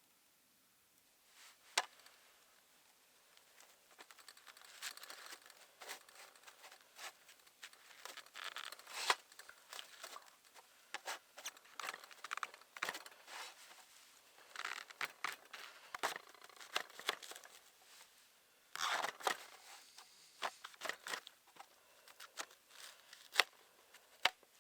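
Plastic packaging being handled: crinkling and tearing, with scattered sharp clicks and taps throughout.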